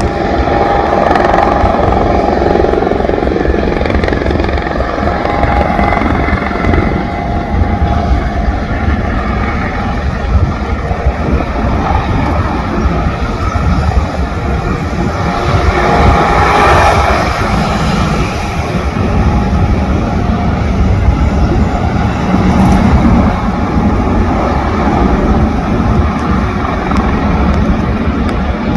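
Eurocopter AS-365 Dauphin (Dolphin) helicopter running, with its rotor chopping fast and steadily and its turbines whining. The sound is loud throughout and swells about halfway through.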